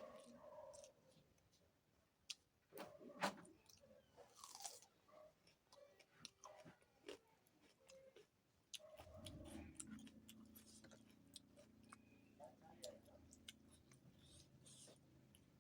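Close-up eating sounds: chewing and crunching of food with scattered wet clicks and bites, the loudest crunches a few seconds in. About nine seconds in, a steady low hum starts and continues under the chewing.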